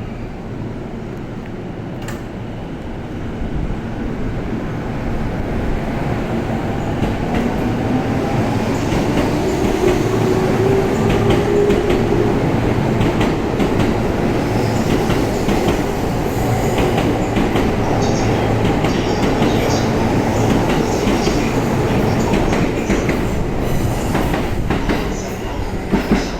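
Electric commuter train starting off and gathering speed. The wheel and running noise builds up over several seconds to a steady run, with a faint motor whine and light clicking of wheels over rail joints.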